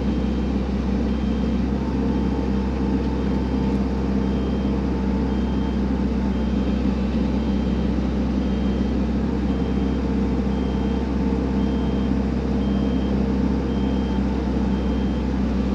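Excavator's diesel engine running steadily as it tracks, with its travel alarm beeping about once a second.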